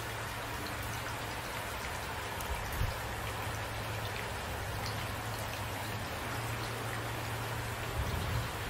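Steady rain falling, a constant hiss with scattered drop ticks and a low rumble underneath. Two brief low thumps come a few seconds in and again near the end.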